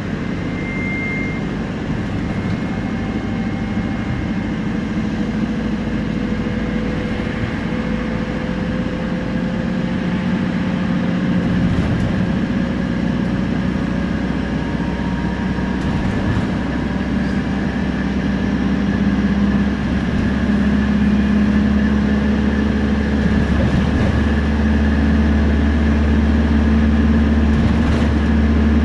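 Temsa Prestij SX midibus's diesel engine and drivetrain running under way: a steady low drone with a faint whine that slowly rises in pitch, growing gradually louder, with a deeper drone from about halfway on.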